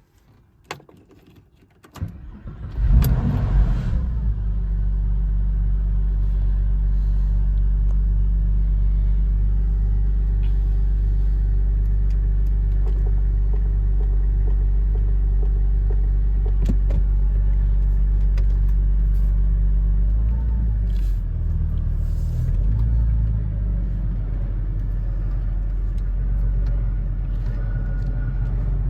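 Cold start of a 1999 Porsche 911 Carrera's 3.4-litre flat-six with a B&B exhaust. After a couple of clicks the starter cranks briefly about two seconds in, and the engine catches with a short rev flare. It then settles into a steady, smooth idle, and the idle note shifts slightly about twenty seconds in.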